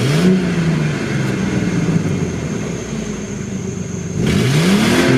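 1998 Ford Explorer's SOHC 4.0 V6 revved twice with the stock exhaust, heard from inside the cab. Each rev rises quickly and falls back slowly, the second about four seconds in.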